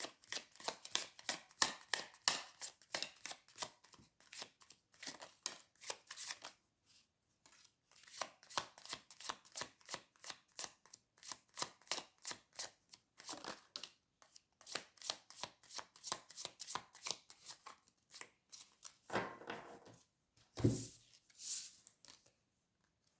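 A deck of tarot cards being shuffled by hand: runs of quick, even card slaps, several a second, with short pauses between passes and a couple of heavier knocks near the end.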